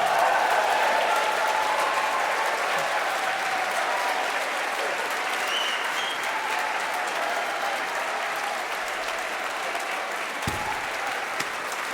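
Audience applauding and cheering at the end of a song, fading slowly, with a few shouts rising out of it. There is one low thump near the end.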